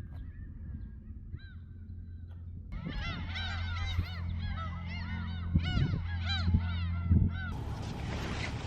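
A flock of birds calling, many short rising-and-falling calls overlapping one another. The calls start abruptly about three seconds in and cut off shortly before the end, over a steady low hum with a few soft thumps.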